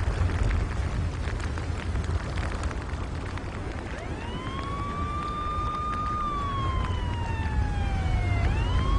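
Deep continuous rumbling with crackling from a volcanic pyroclastic flow. About four seconds in, a warning siren winds up, holds its pitch, slowly falls, then winds up again near the end.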